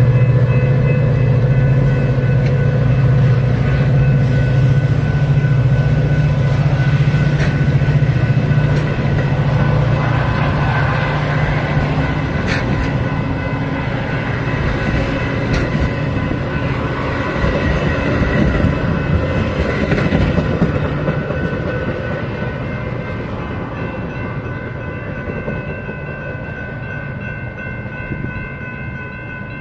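Metra diesel commuter train passing at speed: a strong low engine hum for the first several seconds, then the coaches rolling by, with steady high tones over the noise. The sound slowly fades toward the end.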